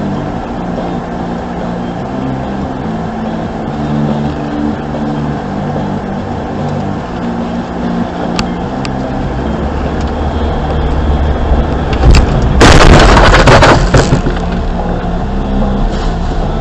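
Car running along with steady engine and road noise, then a loud crash about twelve seconds in: a dense, crunching impact that lasts about two seconds before the road noise carries on.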